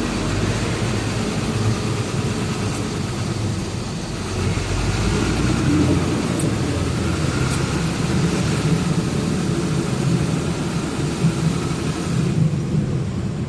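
Truck engine running steadily with road noise while driving; the higher hiss drops away about twelve seconds in.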